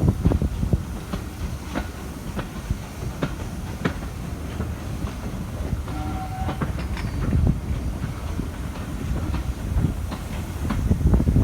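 Steam-hauled railway carriage running along the line, with a steady low rumble and repeated clickety-clack of wheels over rail joints. A brief steady tone sounds about six seconds in.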